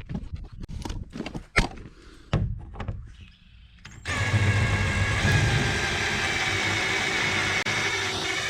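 A few knocks and clunks of hard plastic parts being handled, then about four seconds in a power drill starts abruptly and runs steadily with a low hum and a high whine, drilling out the rivets that hold a porta-potty seat.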